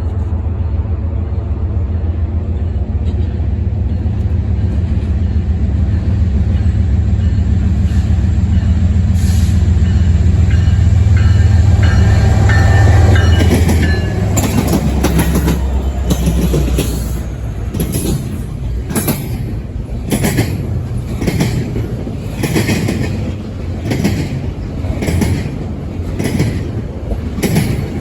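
Diesel-electric freight locomotives of a double-stack container train pass close by. Their low engine drone builds to its loudest about halfway through, then gives way to the stack cars' wheels clicking over the rail joints in a steady, regular rhythm.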